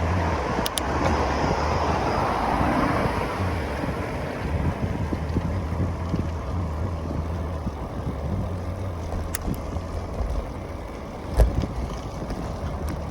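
Wind buffeting the microphone over the rolling noise of a 2019 Specialized Sirrus Sport Disc cross bike being ridden, with a few scattered clicks.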